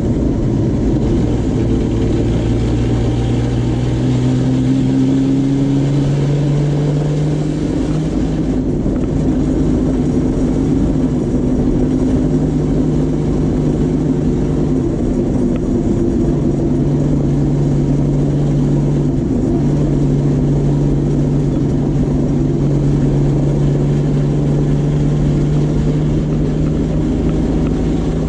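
Puma GTB race car's Chevrolet straight-six engine heard from inside the cockpit, pulling at moderate revs at low road speed. Its note rises over the first several seconds and then holds fairly steady, over constant road and wind noise.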